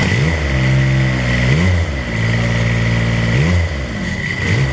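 Rebuilt Kubota diesel engine running, its speed picking up at the start and then swelling up and back down about every two seconds as the throttle is worked. A steady high whine runs alongside.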